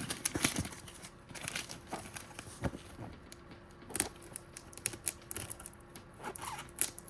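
Packing tape tearing and cardboard being handled, with irregular short scrapes and knocks as two taped-together boxes are worked apart.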